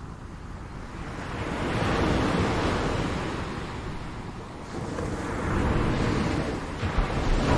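Ocean surf: waves washing in, swelling and easing in two surges, with a low rumble and wind noise on the microphone.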